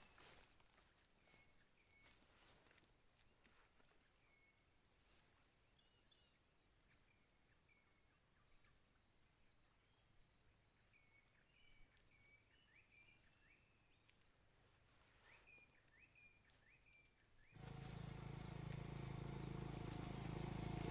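Faint steady drone of insects such as crickets, with scattered short high chirps. About three-quarters of the way through, a louder noise with a low hum comes in suddenly and keeps growing.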